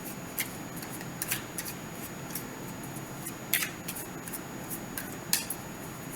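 Tarot cards being shuffled and handled: irregular short, crisp snaps and swishes of card stock, about a dozen over the few seconds.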